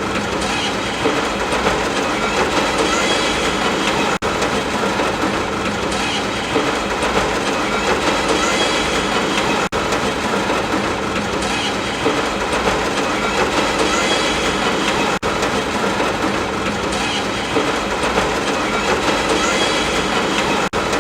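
Looped sleep-ambience track: a steady rushing noise over a low rolling rumble, broken by a brief dropout about every five and a half seconds where the loop restarts.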